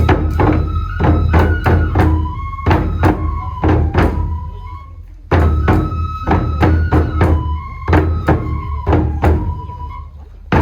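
Traditional kenbai (sword dance) music: a deep drum pounding with sharp, rapid strikes over a high flute-like melody. It starts suddenly, stops briefly about five seconds in, then starts the phrase again.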